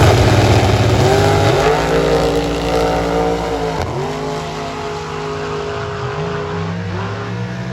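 Drag racing car accelerating hard down the strip, its engine pitch climbing and dropping sharply at gear changes about four and seven seconds in, the sound fading as it pulls away.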